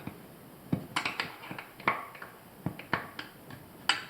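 Irregular sharp clicks and light taps of small hard parts against the faucet body, about nine in all, as a lubricated rubber seal is pushed into place.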